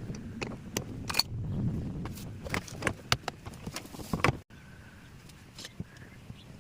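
A series of irregular clicks and knocks over a low rumble, as parts of a twin-tub washing machine are handled; it cuts off abruptly about four and a half seconds in.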